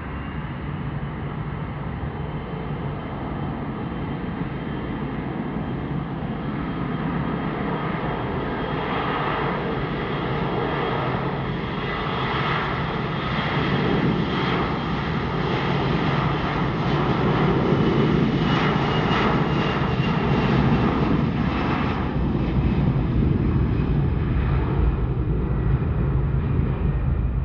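Airbus A321-200 jet airliner's twin turbofan engines at takeoff power, a steady roar with a faint high whine that grows louder as the plane takes off, loudest about two-thirds of the way through, then easing slightly.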